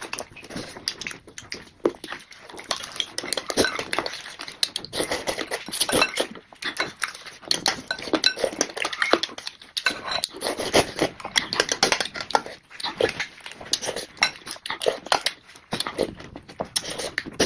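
Close-miked eating sounds of a person chewing chicken and noodles: wet chewing and crunching, with many irregular clicks.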